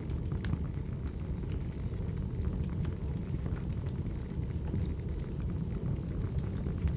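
Wood fire burning: a steady low rumble of flames with scattered small crackles and pops from the logs.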